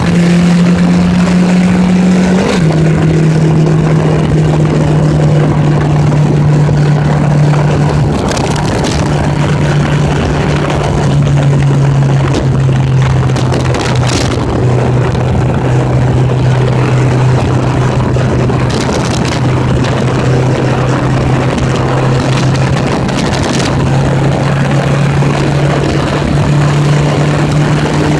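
1980s Honda Gold Wing motorcycle engine running under way at a fairly steady speed, over a rush of wind noise. The engine note steps down suddenly about two and a half seconds in, then holds nearly level with small dips.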